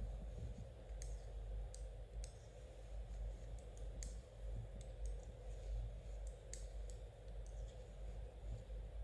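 Knitting needles clicking lightly and irregularly against each other as stitches are worked, about one or two clicks a second, over a steady low hum.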